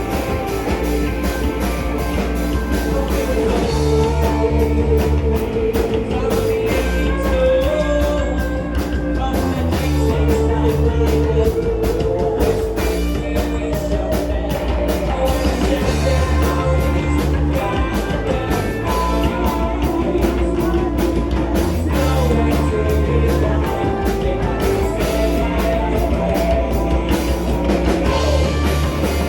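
Live rock band playing a song: electric guitars, bass and drum kit with a steady beat.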